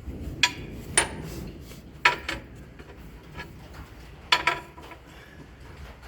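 Metal tools or parts being handled: about four sharp metallic clinks, each ringing briefly, the loudest a little after two seconds in and another about four seconds in.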